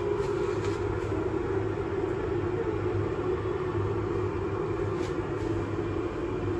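Electric kettle heating water, a steady rumbling hiss as it nears the boil.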